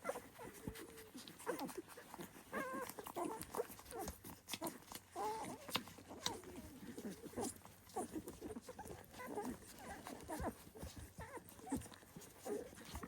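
A litter of very young Dalmatian puppies squeaking and whimpering: many short, overlapping, high cries, some bending in pitch, with small clicks among them.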